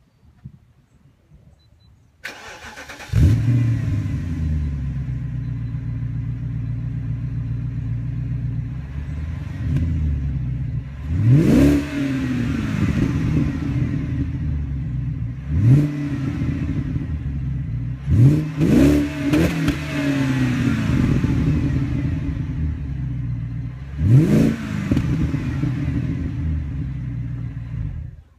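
A 2004 BMW 545i's 4.4-litre V8 through a dual Magnaflow exhaust, cranked and starting about two seconds in, then idling. It is revved in several quick blips, the pitch rising and falling each time, before it is switched off at the end.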